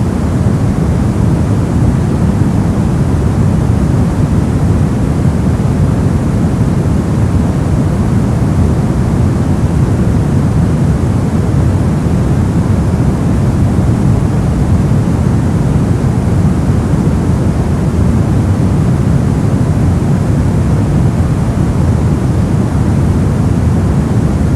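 Steady, unchanging noise played as white noise for sleep and focus. Most of its weight sits low, so it is a deep, even rush rather than a bright hiss.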